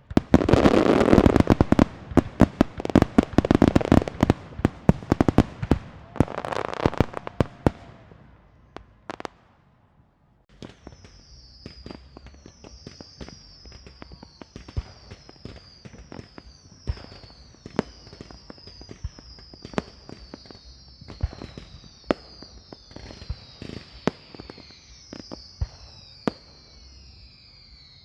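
A string of firecrackers going off in a rapid, loud volley of cracks for about eight seconds, then dying away. After a brief break about ten seconds in, scattered quieter firework pops continue under a run of short, high, falling whistles.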